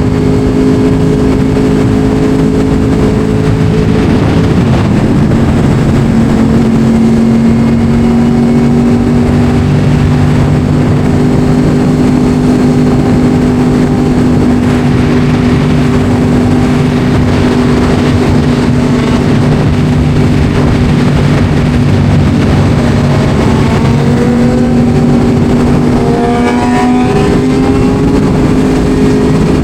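Yamaha R1 sportbike's inline-four engine running at a steady cruise under wind rush, its pitch shifting slightly a few seconds in. Near the end it climbs in pitch as the bike accelerates.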